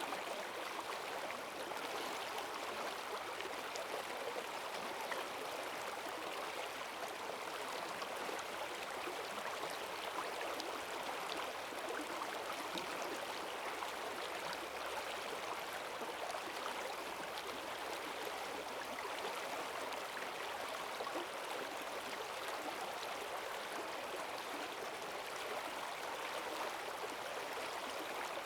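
Forest stream running high after heavy rain, a steady rush of fast water over the streambed.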